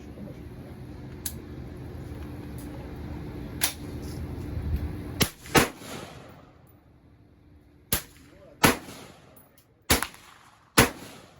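Gunshots: six sharp, loud reports, the first two close together and the rest about a second apart, each with a short echoing tail, after a fainter shot a few seconds earlier. A steady low rumble underlies the first half and stops about the time the loud shots begin.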